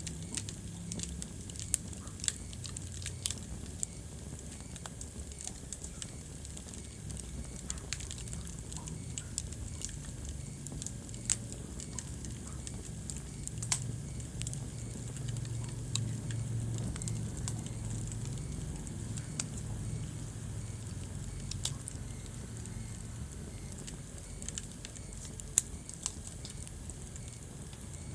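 Wood fire burning in a fireplace: a steady low rumble of the flames with irregular crackles and occasional sharper pops.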